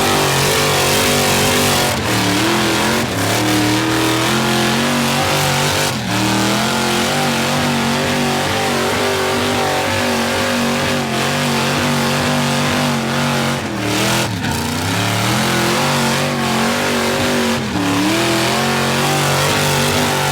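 Mega truck engine held at high revs with its tyres spinning, the pitch wavering, dropping briefly about two-thirds of the way in and then revving back up.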